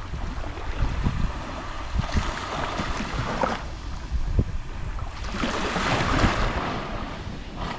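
Small Mediterranean waves lapping and washing on the shore, in two swells: one about two seconds in and a longer one in the second half. Wind gusts buffet the microphone with low thuds underneath.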